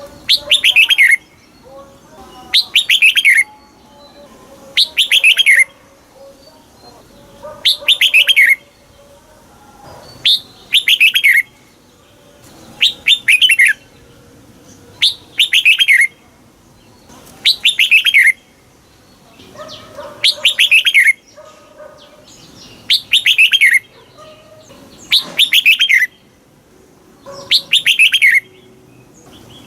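Red-whiskered bulbul singing: a short, loud phrase of quick falling notes, repeated about every two and a half seconds.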